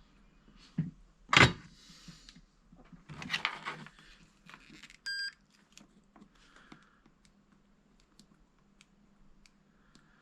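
Tools and parts being handled on a workbench: a couple of sharp knocks, the second the loudest, then rustling, and a single short electronic beep about five seconds in.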